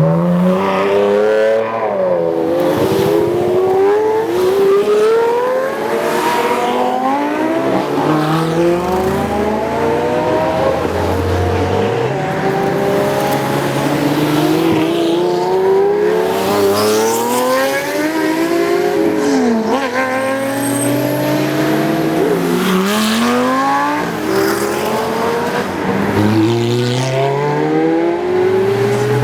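Exotic sports cars accelerating hard one after another, engines revving up through the gears, the pitch rising and then dropping sharply at each upshift, with several cars overlapping.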